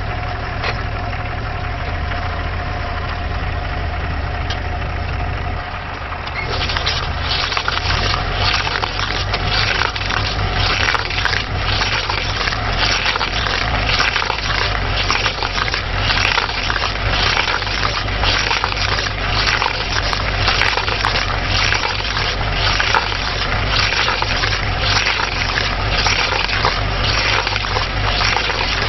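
A machine engine running steadily. About six seconds in it grows louder and is joined by a dense, continuous crackling and splintering of wood being broken up.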